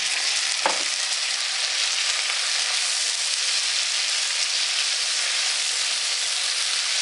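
Chopped onions and champignon mushrooms sizzling steadily in a frying pan as they are stirred with a wooden spatula, with a short knock about a second in.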